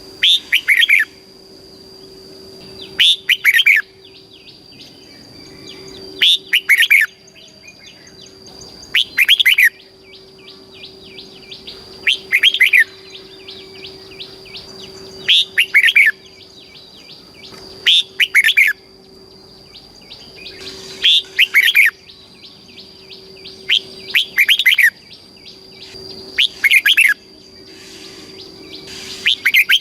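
Red-whiskered bulbul singing: short, loud phrases of falling whistled notes, repeated about every three seconds, with fainter rapid chirping between them. A faint steady high tone runs underneath.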